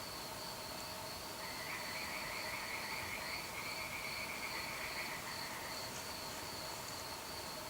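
Night insects, crickets, chirping in a steady pulsing rhythm. About a second and a half in, a frog joins with a rapid trill that lasts roughly four seconds.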